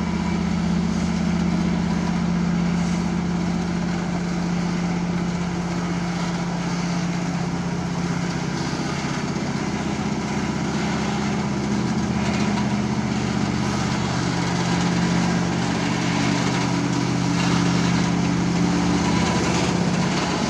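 Engine of a large rail-laying machine running steadily with a low hum, its pitch shifting slightly now and then.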